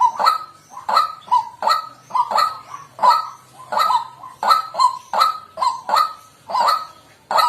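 White-breasted waterhen calling: a loud, monotonous series of harsh croaking notes, repeated at about two a second.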